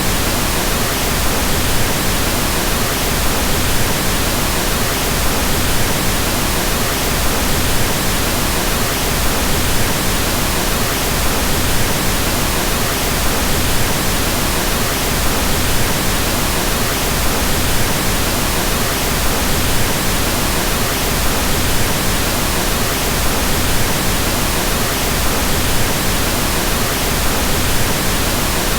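Pink noise, a steady even hiss with more weight in the lows, unchanging throughout.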